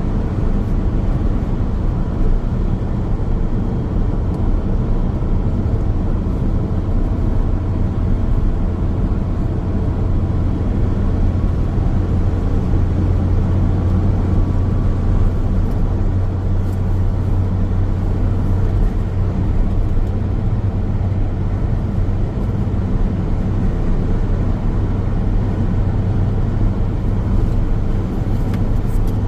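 Car driving along a highway: steady road noise of tyres and engine, a low even rumble.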